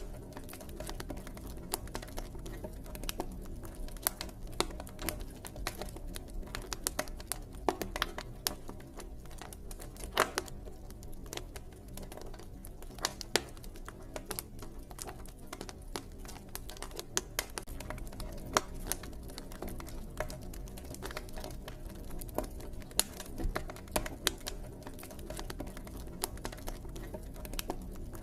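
Campfire crackling: irregular sharp pops and snaps from burning wood over a steady low rumble of the flames.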